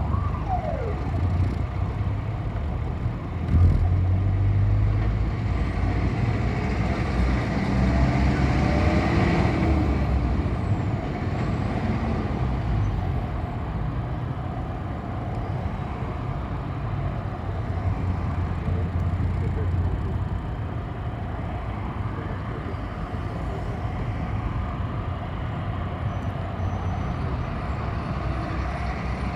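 City bus running, heard from inside the cabin: a steady low engine and road rumble whose pitch drifts up and down, growing louder about three and a half seconds in, with a hiss around nine seconds in.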